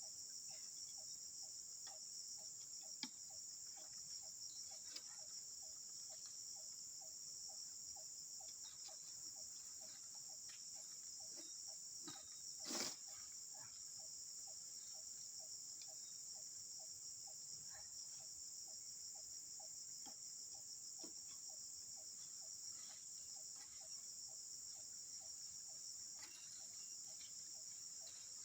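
Steady high-pitched insect chorus, with a lower call repeating about two to three times a second beneath it. A single brief louder noise comes about halfway through.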